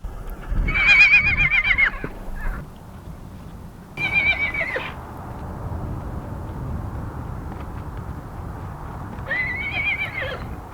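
Wild horse whinnying three times, each a high quavering neigh that drops in pitch at its end; the first call is the longest and loudest.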